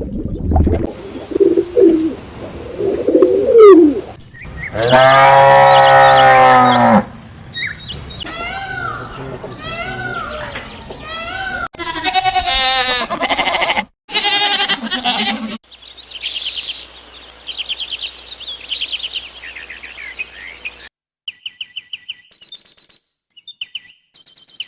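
A run of different animal calls cut one after another: low calls at first, then one loud, long, low call of a farm-type animal, a series of shorter arching calls, and short high bird chirps near the end.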